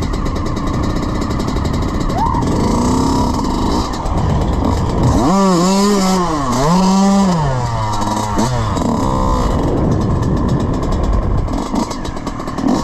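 Dirt bike engine running under a constant rush of noise. About five seconds in it revs up and down several times in quick succession, then drops back to a lower note.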